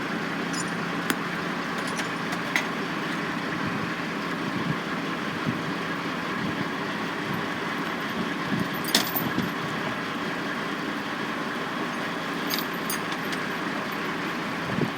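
Steady din of construction machinery running, with a constant low hum, a few sharp clicks and one louder knock about nine seconds in.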